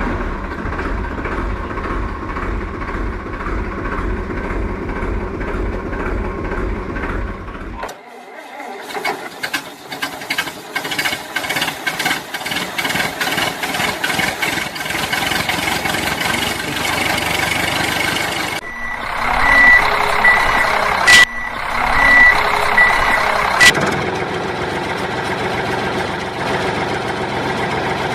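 Toy construction vehicles' sound effects: a steady engine rumble, then a stretch of rapid clicking and rattling, then a run of high reversing beeps, and the engine rumble again near the end.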